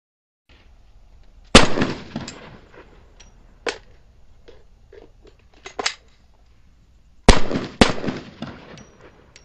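Handgun shots: a single shot about a second and a half in, then two quick shots half a second apart near the end, each ringing off. Fainter sharp cracks come in between.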